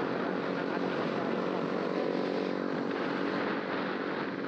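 Honda RS150's 150 cc single-cylinder four-stroke engine running steadily on the move, under heavy wind noise on the camera's microphone.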